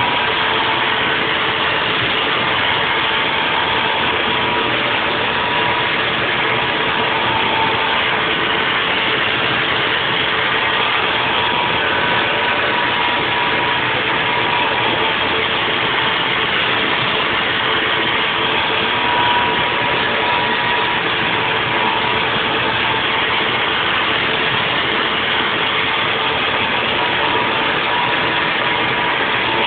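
Haas VF4 CNC vertical mill machining a block: steady spindle and cutting noise with a thin whine that comes and goes.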